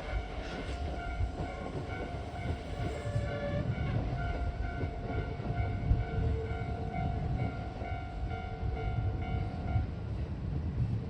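Kintetsu train running through a level crossing, its wheels and motors making a heavy rumble, while the crossing's warning bell rings steadily. The bell stops about ten seconds in.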